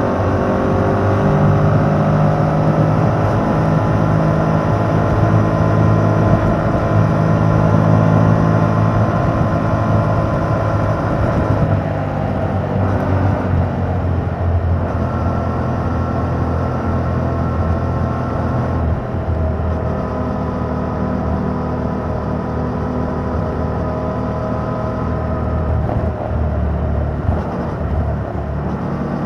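2021 Yamaha MT-07's 689 cc parallel-twin engine running on the road through its stock exhaust. Its pitch climbs slowly over the first ten seconds or so, then eases off and holds steadier, over a low wind rumble.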